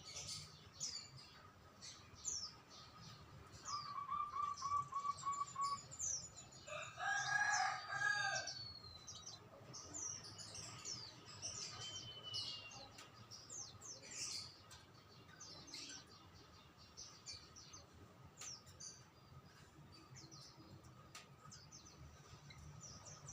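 Small birds chirping and calling throughout, with a quick run of repeated notes about four seconds in, and a rooster crowing once, loudest, about seven seconds in.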